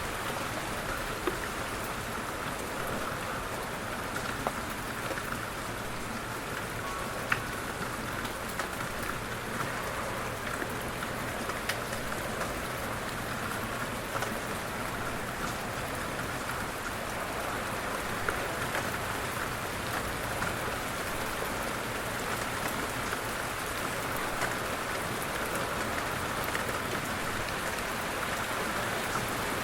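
Light rain falling steadily, an even hiss with scattered sharper taps of individual drops.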